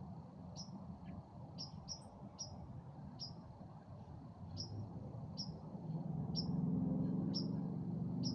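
A bird repeating short, sharp chip notes, roughly one or two a second, over a faint steady high hum of insects. A low rumble swells up about six seconds in.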